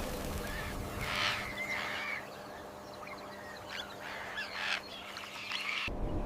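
Birds calling, a series of short separate calls with gliding pitch over a steady low hum; the sound changes abruptly near the end.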